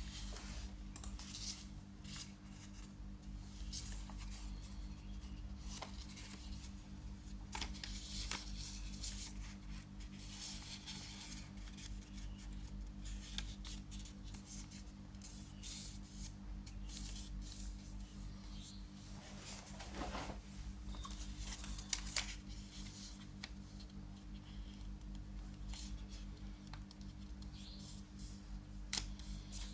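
Origami paper being folded and creased by hand: irregular rustles and crackles of paper, with a sharper crackle about 22 seconds in.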